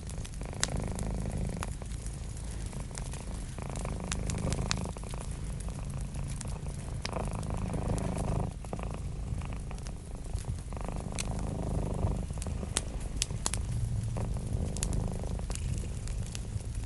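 Domestic cat purring steadily in a low, pulsing rumble that swells and eases with its breaths, over a wood fire crackling with frequent sharp pops.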